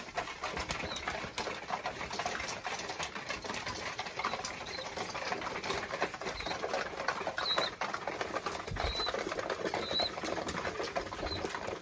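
Domestic fancy pigeons in a loft: a busy mix of bird sounds, with short high chirps every second or so, scattered clicks and scuffles, and occasional wing flapping.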